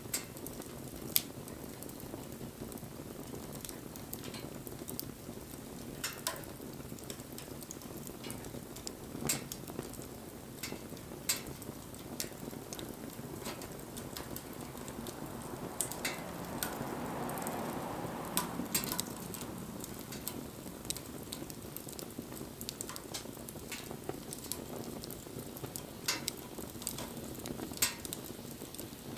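Wood campfire burning, with a steady low rush of flames and scattered sharp crackles and pops. About sixteen seconds in, a hiss swells for a few seconds and then fades.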